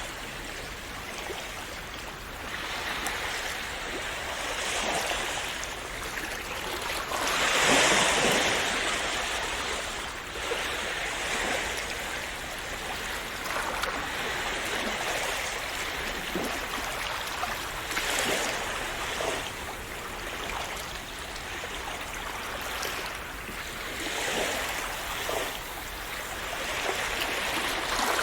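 Sea waves washing onto a shore in a continuous rush, swelling and falling back several times, the biggest wave breaking about eight seconds in.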